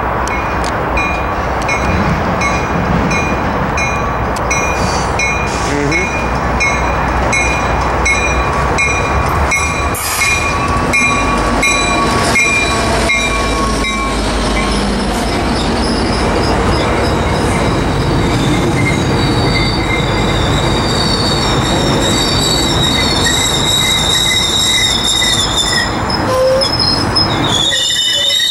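Metrolink commuter train rolling past close by, with a steady rumble of wheels on rail. A bell dings at a steady pace through the first half. Later, high wavering wheel squeal comes in. The rumble drops away suddenly just before the end.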